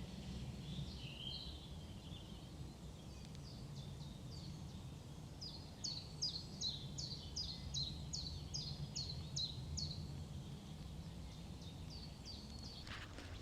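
Small songbird singing faintly: a few scattered chirps, then a run of about a dozen evenly repeated high notes, each sliding down in pitch, about three a second, over a low steady background rumble.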